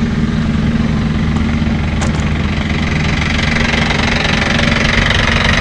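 A vehicle's engine idling steadily with a low, even hum, growing a little louder near the end.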